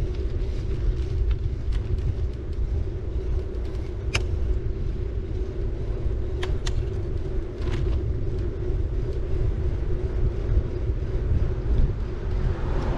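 A city bike being ridden, heard from a camera mounted on it: a steady rumble of tyres and wind with a low hum. A few sharp clicks come about four seconds in and again around six and a half and seven and a half seconds.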